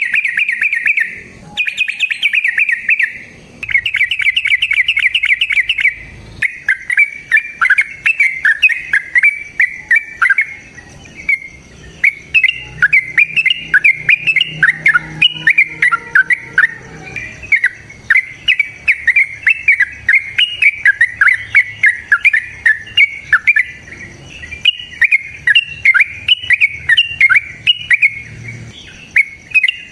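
Lovebird singing its long 'ngekek' chatter: high, rapid trilling runs for the first few seconds, then a continuous stream of sharp chirps, several a second.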